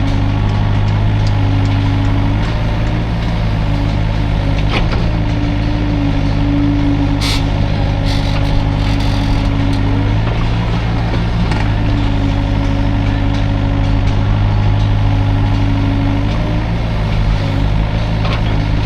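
Hydraulic excavator's diesel engine running steadily, with a higher hum that swells and drops away several times, and a couple of sharp knocks.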